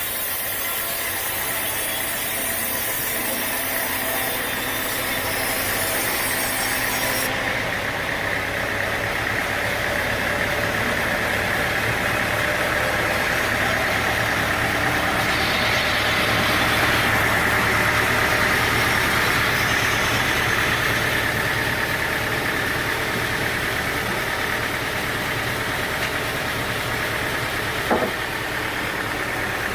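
Sawmill machinery running steadily with an engine-like drone. A high hiss drops away about a quarter of the way in, and there is one sharp click near the end.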